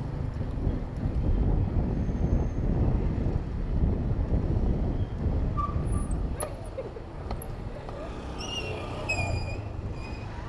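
Wind buffeting the microphone and road and traffic rumble while riding a bicycle. The rumble eases off after about seven seconds, and near the end there is a brief high-pitched squeal.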